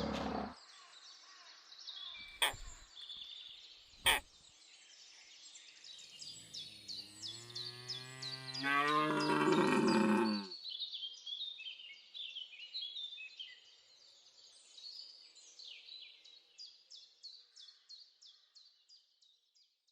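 Small birds chirping and singing, with one long, low, loud call from a large animal in the middle that lasts about four seconds. There are two sharp clicks in the first few seconds, and a quick, even run of chirps near the end.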